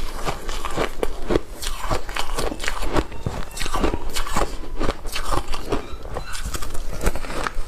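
Ice coated in matcha powder being bitten and chewed close to the microphone: a steady run of sharp cracks and crunches, several a second.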